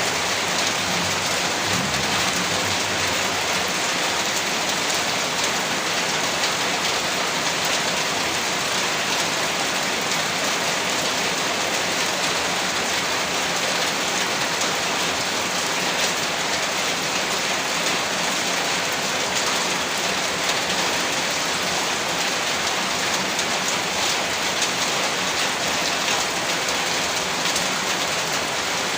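Steady rainfall, a dense, even hiss of countless drops that does not let up.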